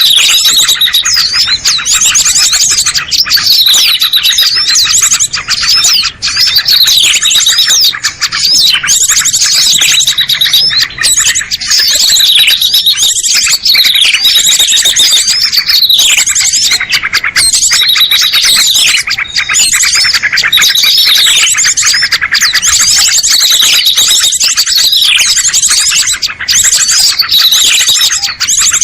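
Dense chorus of many small songbirds chirping and trilling over one another without pause, with fast high trills and repeated falling whistled notes, a loud bird-lure (pikat) recording meant to call small birds down.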